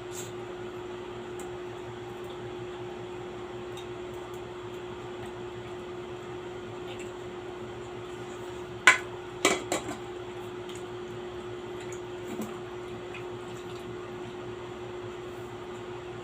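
Cutlery clinking against a plate while eating: one sharp clink about nine seconds in, then a quick run of three or four more, over a steady background hum.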